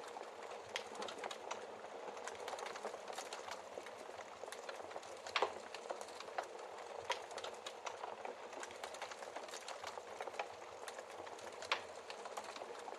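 Wood fire crackling in a fireplace: a steady low hiss with irregular sharp pops and snaps, two louder pops about five and a half seconds in and near the end.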